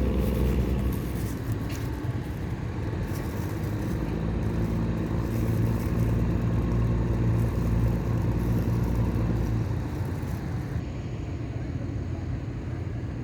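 A motor vehicle engine running steadily with a low hum. The hum changes and eases about ten seconds in.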